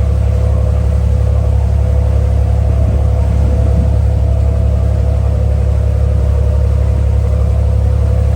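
Ferry's engine running steadily under way: a loud, even low drone with a steady hum above it.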